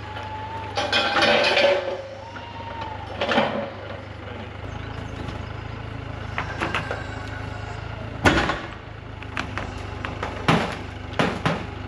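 An engine running steadily under a series of sharp knocks and clunks, about six of them, the loudest about eight seconds in.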